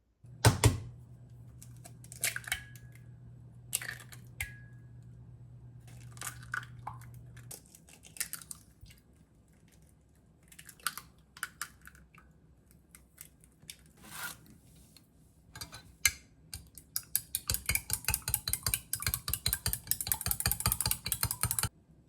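Kitchen food-prep handling: scattered clicks and clinks of utensils and dishes over a low steady hum that stops after about seven seconds, then a few seconds of fast, even tapping, about ten strokes a second, that cuts off near the end.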